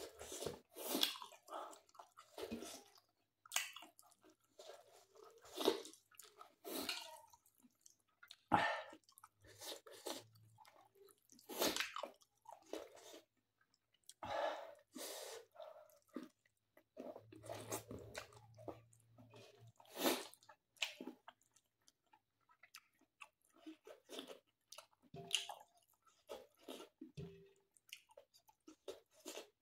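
A person chewing a mouthful of rice and mutton eaten by hand, with wet smacks and crunches coming at an irregular pace.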